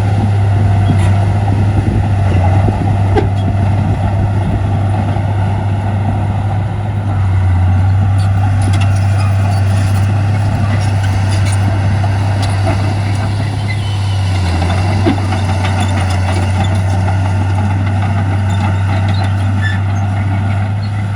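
Heavy earthmoving machinery's diesel engine running steadily under load, a deep, even drone, with occasional light clicks and knocks over it.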